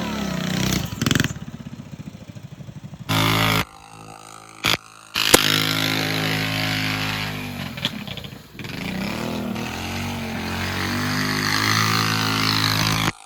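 Small mini-bike engine running and revving up and down, with a rapid putter at low revs near the start. Several abrupt cuts break it into short clips.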